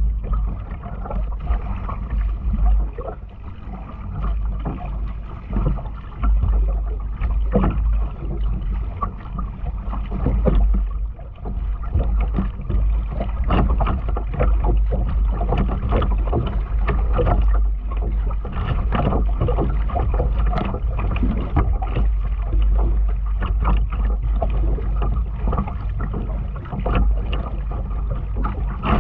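Kayak paddle splashing and dripping in the water, stroke after stroke at an uneven rhythm, over a steady low rumble of wind on the microphone.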